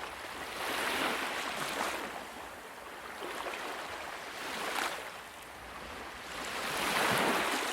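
Ocean waves breaking, the surf rising and falling in three surges: about a second in, just before the five-second mark, and near the end.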